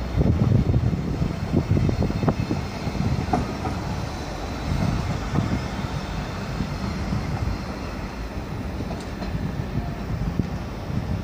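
Electric passenger multiple-unit trains moving through a station: a steady low rumble with irregular wheel knocks over rail joints and points, loudest in the first couple of seconds.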